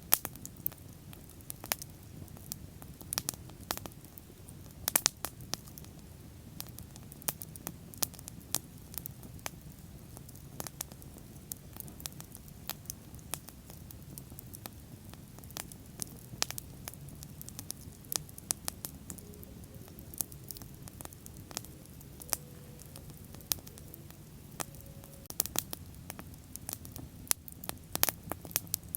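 Wood bonfire burning steadily, with a low rumble of flames and frequent sharp crackles and pops of burning wood.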